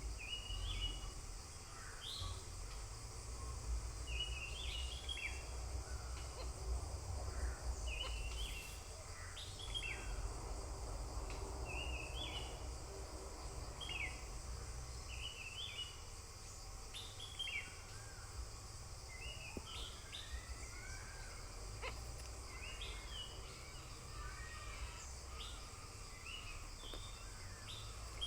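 A small bird chirping, short sharp calls repeated every second or two, over a steady high hiss and a low rumble.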